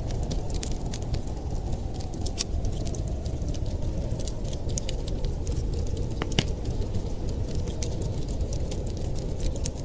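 Wood fire crackling: many sharp, irregular pops over a steady low rumble, with one louder pop a little past halfway.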